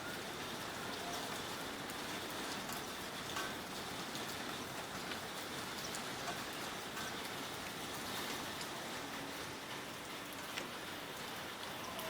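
Steady rain shower falling: an even hiss, with scattered sharp ticks of single drops striking close by.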